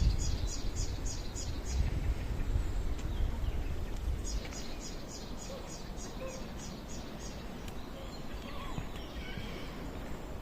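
A songbird singing a run of short, high, evenly repeated notes, about four a second, once near the start and again from about four seconds in. A steady low rumble runs underneath.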